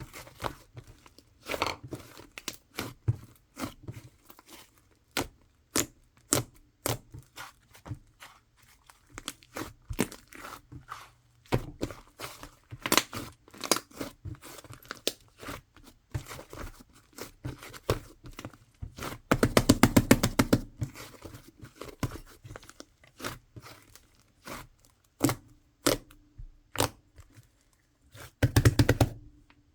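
Slime being squished and poked by hand, making irregular sharp clicks and pops. Twice, once about two-thirds of the way in and again near the end, it gives a run of fast crackling clicks.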